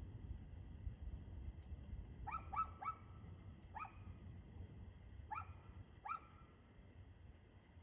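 A dog barking: six short, fairly faint barks, a quick run of three about two seconds in, then three more spaced out, over a steady low rumble.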